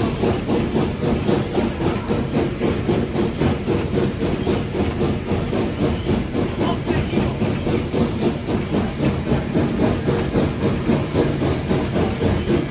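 Nevada Northern No. 81 steam locomotive running, heard from inside the cab: a steady hiss of steam with even exhaust chuffs about twice a second.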